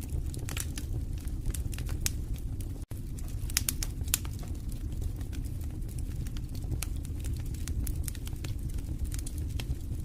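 Wood fire burning in a fireplace: irregular crackles and sharp pops over a steady low rumble of the flames. The sound cuts out for an instant nearly three seconds in.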